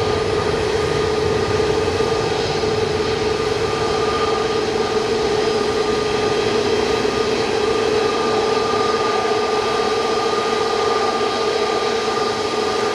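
Boeing 737 MAX 8's CFM LEAP-1B jet engines running loud and steady, with a steady whine held over the engine noise.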